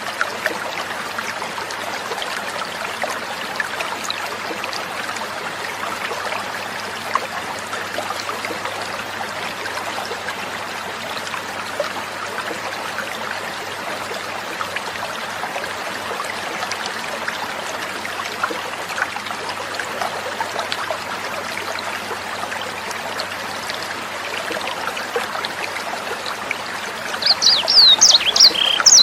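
Water trickling steadily, like a small stream or fountain. About two seconds before the end, a sanger bird starts a rapid series of high-pitched chirping notes over the water.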